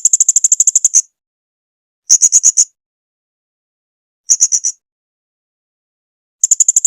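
Blue-crowned hanging parrot (serindit) calling in quick trains of high, sharp chirps. Four bursts of rapid repeated notes come with silent gaps between them, the first about a second long and the others shorter.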